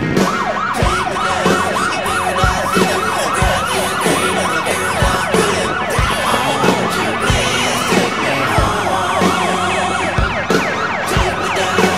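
Fast yelping siren wails, several overlapping at different pitches, over a steady low thump a little under once a second.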